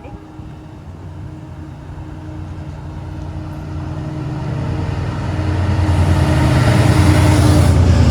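Diesel train approaching, its low engine drone growing steadily louder. Over the last few seconds a rushing noise of wheels on rail builds in.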